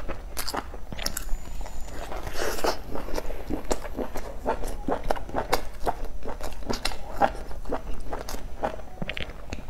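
A person chewing a mouthful of stuffed flatbread filled with sausage and vegetables: an irregular run of sharp chewing clicks, a few each second.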